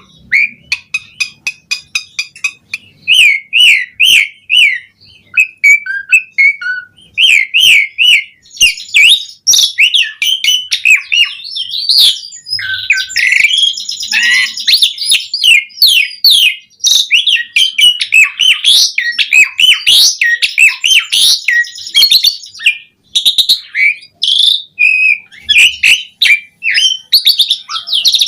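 Asian pied starling (jalak suren) singing in full voice: a long, varied run of rapid whistles, chirps and sharp clicks with hardly a pause, short repeated notes giving way to denser, more varied phrases about a third of the way in.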